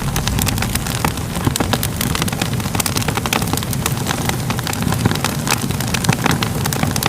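Crackling wood fire: a steady low rumble of flames with frequent, irregular sharp pops and crackles.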